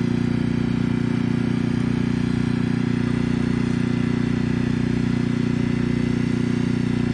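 An engine running steadily at a constant speed, a loud, even drone with a fast regular pulse that does not change.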